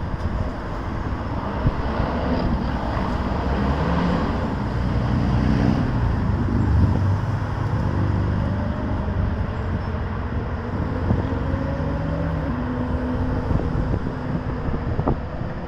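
Road traffic: vehicle engines running and passing, a steady hum and rumble of motor vehicles.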